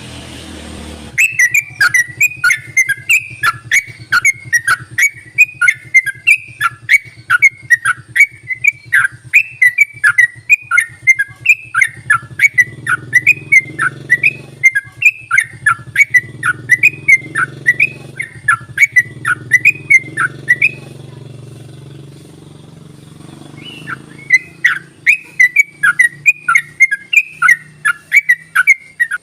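Yellow-vented bulbul (trucukan) singing a rapid, chattering run of short whistled notes, several a second. The run breaks off about two-thirds of the way through and starts again a few seconds later, over a steady low hum.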